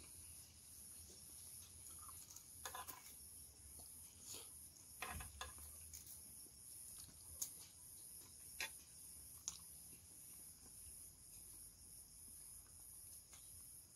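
Faint eating sounds: soft chewing with about half a dozen short mouth smacks and clicks scattered through. Underneath, a high, evenly pulsing chirp like crickets.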